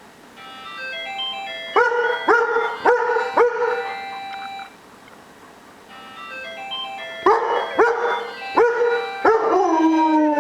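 A cellphone alarm's melody plays twice, and each time a German shepherd answers it with about four short barks. Near the end the dog lets out a longer cry that slides down in pitch.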